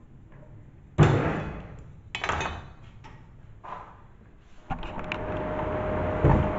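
Two heavy knocks, each dying away over about a second, then a smaller one. After that a steady noise starts and slowly grows louder.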